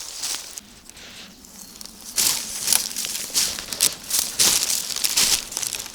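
Footsteps rustling and crackling through forest undergrowth. The steps are faint at first and become a louder, irregular run of rustles from about two seconds in.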